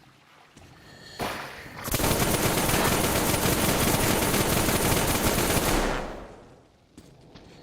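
4A engine run up hard and held for about four seconds as a loud, fast, rattling stream of exhaust pulses, then dropping back to a low idle.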